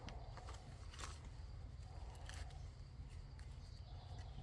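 A few faint, sharp clicks and taps about a second apart, from small objects being handled, over a low steady rumble.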